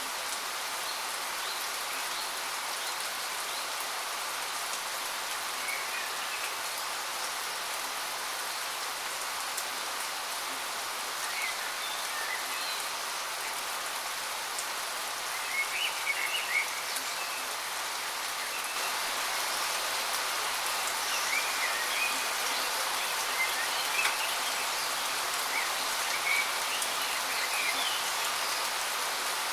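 Waterfall's steady rushing water, growing slightly louder partway through, with small birds chirping briefly now and then, more often in the second half.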